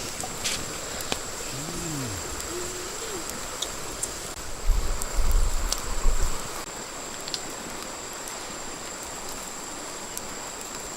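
Steady rushing water noise with a thin, high steady tone above it. A short, low pitched call about two seconds in, and a low rumbling buffet around the middle.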